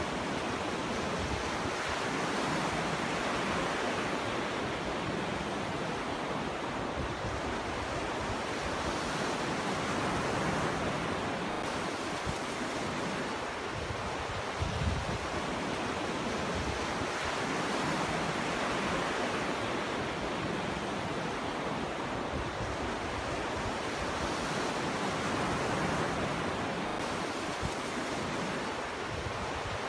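Ocean surf breaking on a beach: a continuous wash of waves that swells and eases every several seconds, with occasional low rumbles.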